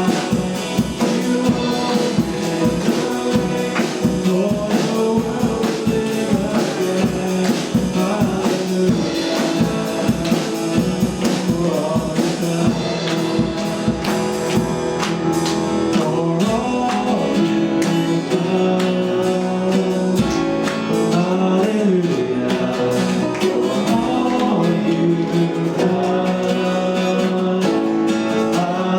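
Worship song in a church service: singing over instrumental accompaniment with a steady beat.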